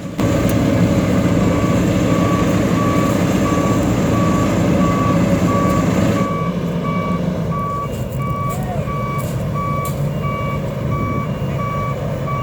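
Reversing alarm of heavy asphalt-paving machinery beeping steadily, a little under two beeps a second, over the diesel engine running. The engine noise drops about six seconds in while the beeping carries on.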